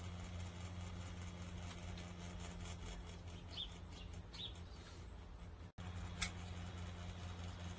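Small USB ceiling fans running with a steady low hum. A few faint high chirps come near the middle, and a single sharp click just after six seconds in, following a brief cut-out.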